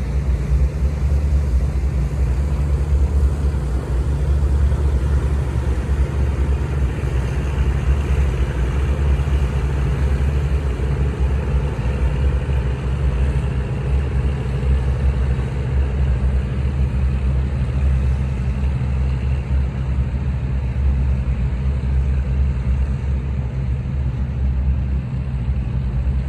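A squid-fishing boat's engine running steadily: a constant low drone that holds even throughout.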